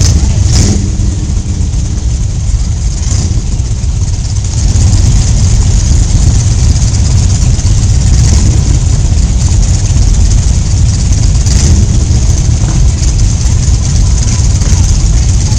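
Motorcycle engine running loudly and steadily, with a deep low rumble that gets a little louder about four and a half seconds in.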